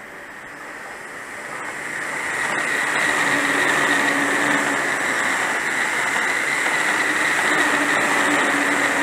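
Electric commuter train passing at speed on the main line. Its running noise builds over the first three seconds and then holds steady, with a high-pitched whine over the rumble of wheels on rail.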